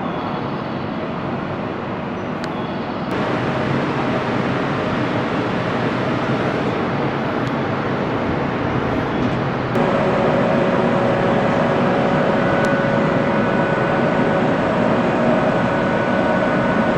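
Train noise at a station platform: a steady rumble that grows louder about three seconds in and again near ten seconds, when a steady electrical hum joins it and holds.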